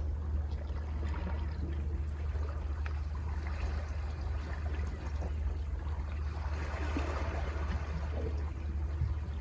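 Sea waves washing and trickling among the rocks below a cliff, with one wash swelling up about seven seconds in, over a steady low rumble.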